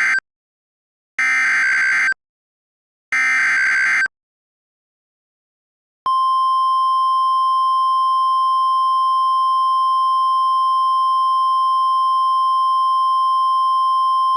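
NOAA Weather Radio alert: the last of three short warbling SAME digital header bursts that encode the warning, then a pause, then the steady 1050 Hz warning alarm tone from about 6 seconds in. This sequence signals that a tornado warning is being broadcast.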